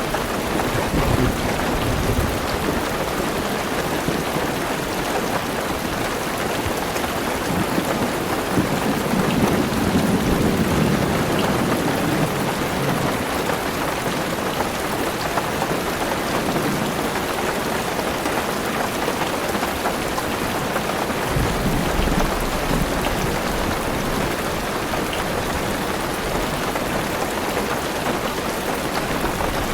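Heavy rain pattering steadily on a car's roof and windows, heard from inside the car, with low rolls of thunder swelling several times, the longest about two-thirds of the way through.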